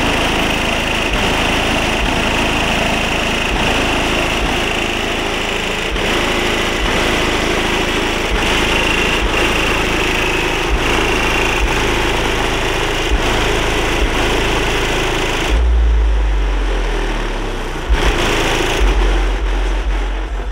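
A car engine running steadily. About fifteen seconds in the higher sound drops away and a loud deep rumble takes over.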